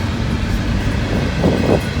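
Freight train rolling past, a steady low rumble of its cars on the rails.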